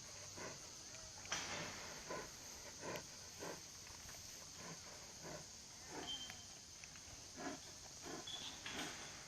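Steady drone of insects, with faint irregular soft knocks and rustles about every half second.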